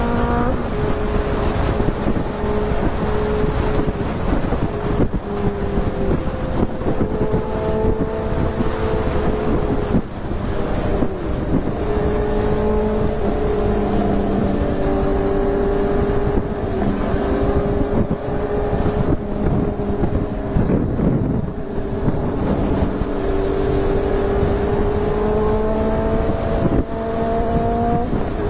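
Motorcycle engine running while riding, its pitch shifting with the throttle and climbing near the end, with wind rushing over the microphone.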